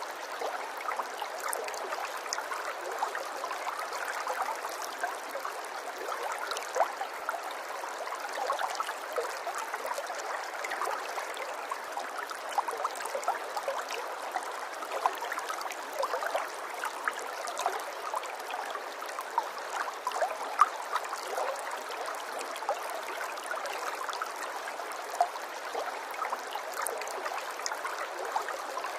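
Running water trickling and babbling steadily, with many small bright drips and splashes through it.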